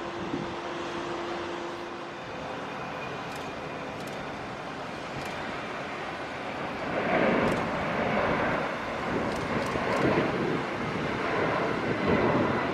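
Jet aircraft engines running, a steady distant rumble that swells into a louder, rougher roar about halfway through.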